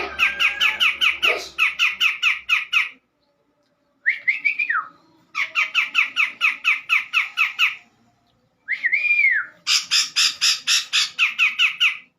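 Cucak jenggot (grey-cheeked bulbul) calling: fast bouts of harsh chattering notes, about eight a second, broken by short gaps. A single arching whistled note comes about four seconds in and another about nine seconds in.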